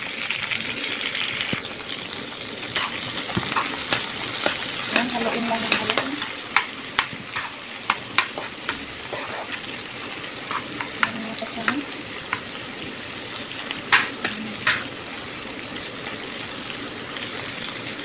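Sliced onion, tomato, ginger and garlic sizzling in hot oil in a pan. From a few seconds in until near the end, a spatula stirs them with repeated sharp clicks and scrapes against the pan.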